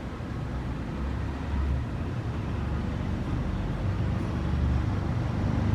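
Low, steady rumbling background noise with some uneven pulsing, slowly growing louder.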